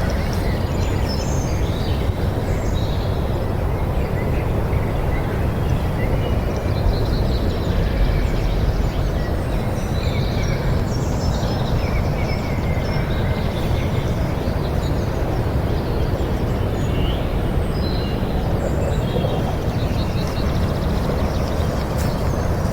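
Outdoor ambience: a steady low rumble with many small birds chirping and twittering throughout.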